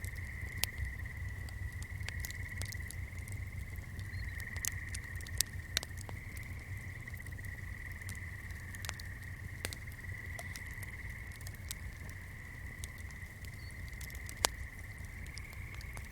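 A swamp chorus trills steadily at one high pitch, with scattered sharp crackles from a burning candle and a low rumble underneath.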